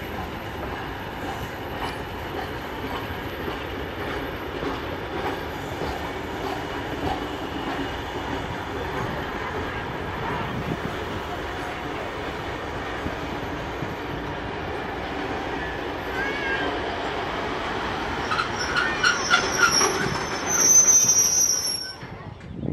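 Passenger carriages of a heritage train rolling past on the track, with a steady rumble and clatter of wheels. High-pitched metallic squealing comes in near the end and is the loudest part, as the last carriages and van go by.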